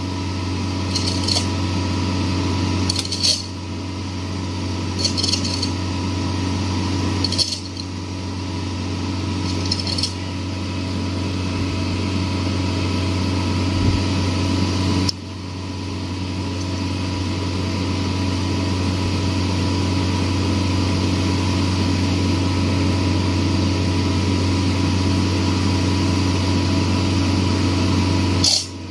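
Mini excavator engine running steadily with a low drone, with sharp metallic clinks every couple of seconds during the first ten seconds.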